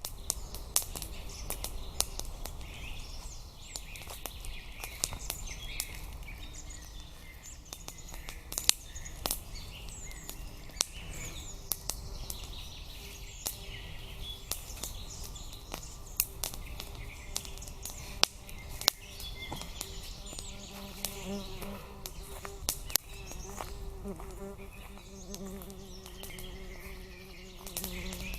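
Forest ambience with small birds chirping and many sharp clicks and snaps. A fly buzzes close by for the last several seconds.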